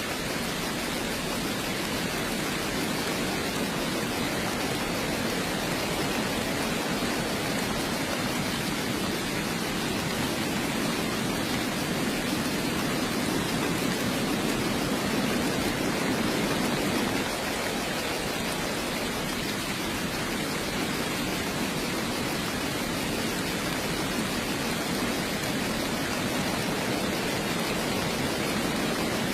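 Steady heavy rain, an even hiss, a little fuller until about halfway through.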